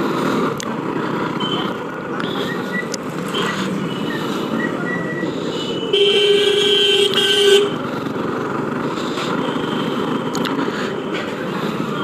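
Busy city road traffic heard from a moving motorbike, a steady noisy rumble of engines and wind. Several short high horn beeps sound in the first half, and about six seconds in a vehicle horn blasts loudly for under two seconds.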